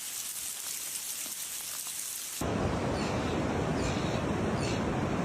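Steady hiss of rain. About two and a half seconds in it changes abruptly to a louder, fuller rush with a deep rumble underneath.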